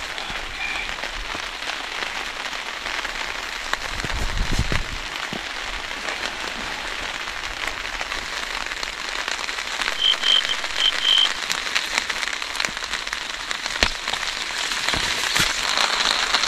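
Heavy rain falling on a tarp overhead: a steady patter with single drops ticking. About ten seconds in, there are four short high chirps.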